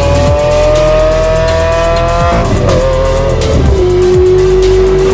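Lamborghini Aventador's V12 engine pulling hard under acceleration, its pitch climbing steadily and then dropping with an upshift about two and a half seconds in and another near four seconds.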